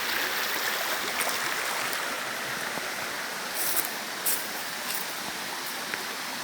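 Flowing river water making a steady rushing hiss. A few short, sharp clicks come in a little over halfway through.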